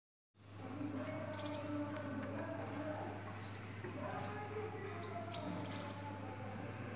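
Small birds chirping: short, high, down-slurred chirps repeated about every second, over a low steady hum.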